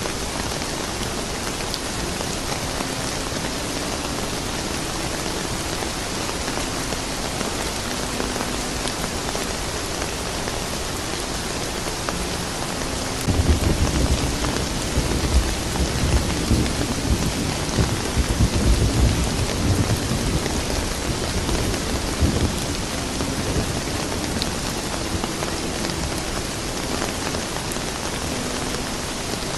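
Steady rain falling, with a roll of thunder that breaks in suddenly about halfway through, rumbles low for about eight seconds, and fades back into the rain.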